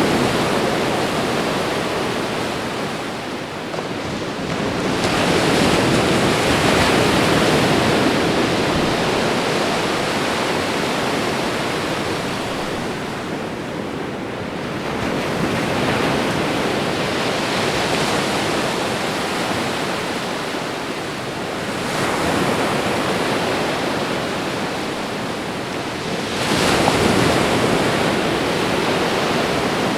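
Ocean waves breaking on a shore: a continuous rush of surf that swells and ebbs every several seconds as each wave breaks and washes back, with a sudden surge near the end.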